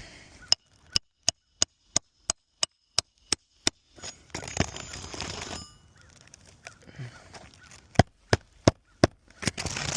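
Hammer driving a roofing nail through asphalt shingles: about ten quick, evenly spaced strikes with a metallic ring, a scraping rustle, then a few more strikes near the end.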